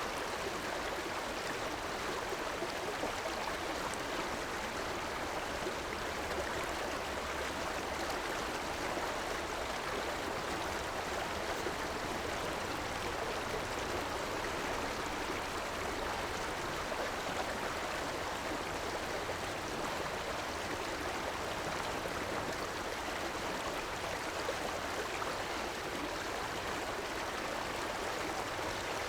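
River water flowing over a shallow bed, a steady, even rushing with no breaks or changes in level.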